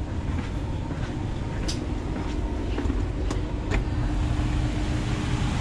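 Steady low rumble of a passenger train heard inside the carriage, with a steady hum and a few short clicks and knocks.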